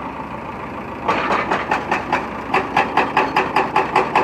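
An engine running with a fast, even chugging beat, about five or six pulses a second, which drops back for about the first second and then returns.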